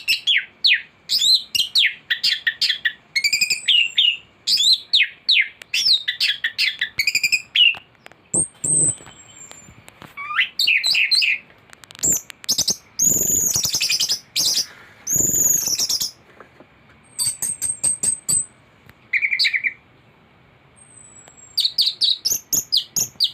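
Anis thrush singing a long, varied song: rapid runs of sweeping whistled notes and fast trills, phrase after phrase with short pauses between them. It is full of copied calls of other birds, the 'isian' that fanciers prize in a master song.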